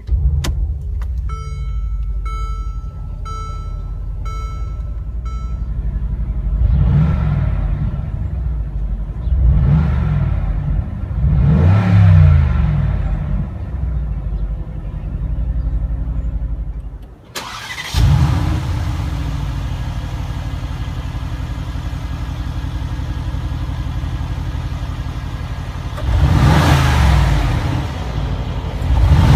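2016 Mercedes-Benz G550's 4.0-litre twin-turbo V8 catching on the key and idling, with a dashboard chime repeating over the first few seconds, then revved three times from inside the cabin. After a cut, the same engine's exhaust is heard idling from behind the car and revved near the end.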